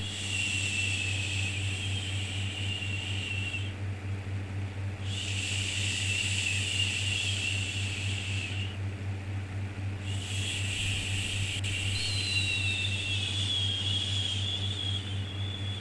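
Repeated 'shhh' hushing sound for soothing a baby, in long strokes of about three and a half seconds with short pauses between them, the last stroke running longer. Under it, a steady low hum.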